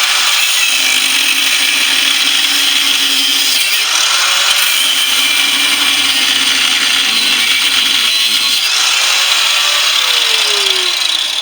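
Electric power tool running continuously as it cuts into a central air unit's compressor housing. Its motor pitch sags and recovers a couple of times under load, and it eases off near the end.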